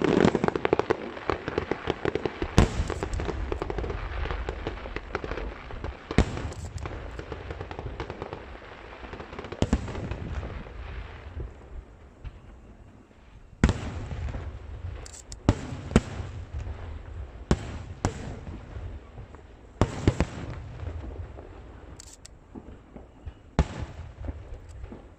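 Aerial firework shells bursting: a dense crackle in the first two seconds, then a dozen or so sharp bangs one to four seconds apart, each trailed by a low rumbling echo.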